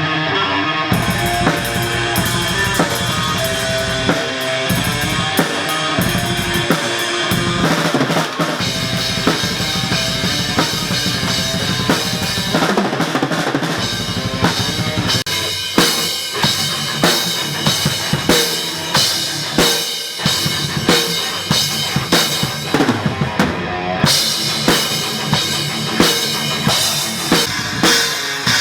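Loud rock music from a band with a full drum kit, the bass drum, snare and cymbals prominent over pitched instruments. It starts abruptly, and the beat grows strong and regular in the second half.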